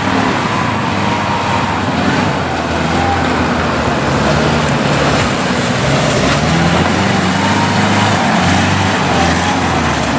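Nissan Patrol's engine running steadily as the 4x4 drives, with a low hum that shifts slightly in pitch over a constant haze of driving noise.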